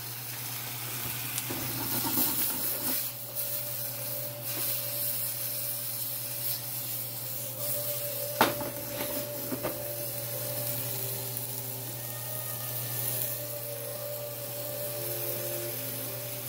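Steak strips and sliced bell peppers sizzling in a skillet over a gas flame as the pan is tossed, with a steady hiss. Two sharp knocks of the pan come about eight and nine and a half seconds in.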